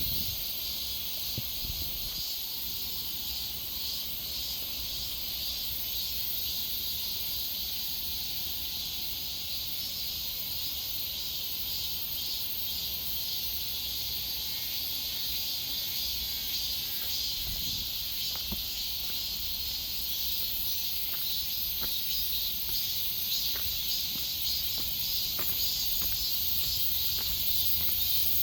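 Steady high-pitched chorus of insects, a continuous shrill buzz with a few faint ticks.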